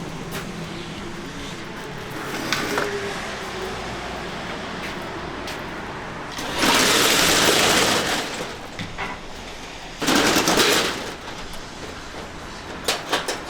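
Two loud bursts of hissing, like compressed air blowing, the first about a second and a half long and the second shorter, over a steady mechanical hum in a truck repair shop.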